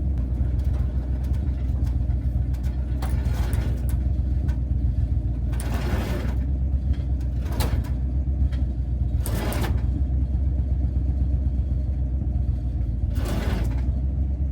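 The Power Wagon's 5.9 Cummins diesel engine running steadily at a constant speed, with several brief hissing swooshes over it.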